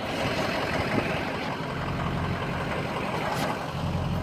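Ford 6.0-liter Power Stroke V8 diesel of a 2004 FX4 pickup running at idle, a steady low engine sound that grows fuller about a second and a half in and again near the end.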